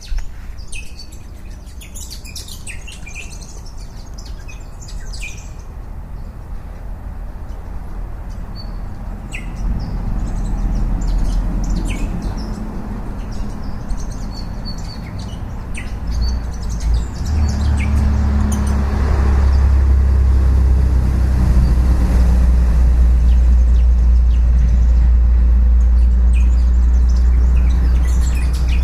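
Wild birds chirping and calling in short high notes, while a vehicle's low rumble builds from about a third of the way in. In the second half that rumble becomes a loud, steady low drone that covers most of the birdsong.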